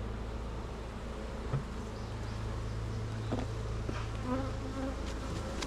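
Honeybees buzzing in a steady mass hum around a hive opened for its honey, disturbed as frames are pulled. A few light knocks sound through it.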